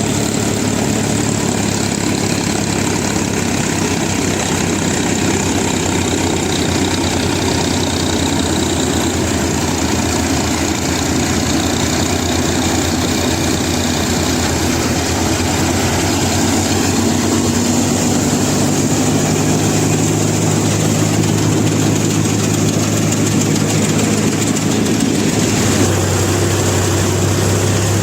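Mini combine harvester running steadily while cutting a mustard crop, its engine drone joined by the machine's mechanical noise. The engine note shifts slightly about 25 seconds in.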